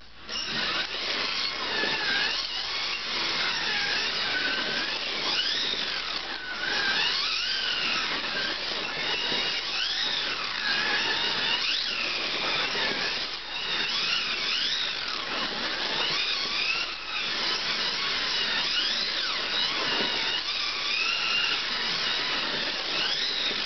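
Slot cars running on a track: their small electric motors whine continuously, the pitch rising and falling over and over as the cars speed up on the straights and slow for the corners, with a steady hiss of the running gear on the track underneath.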